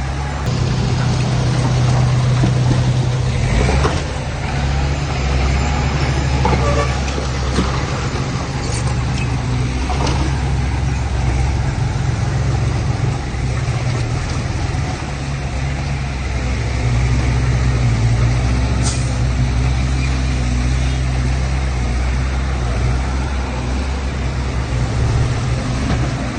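Heavy earthmoving machine's diesel engine running steadily under load, with a few brief sharp noises over it.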